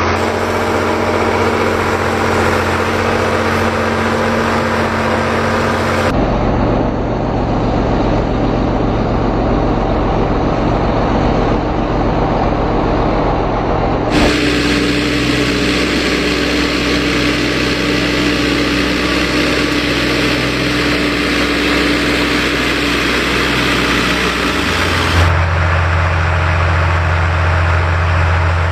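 Ford farm tractor diesel engines running steadily. The sound changes abruptly three times, about 6, 14 and 25 seconds in, as one recording gives way to another. Near the end a strong, low, steady engine note dominates.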